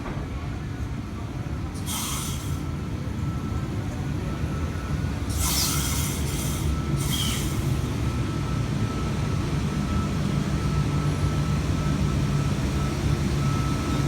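A V-set intercity electric train standing at the platform, with short bursts of hiss about two and five to seven seconds in, then a steady whine and a low hum that grow louder as it gets ready to depart.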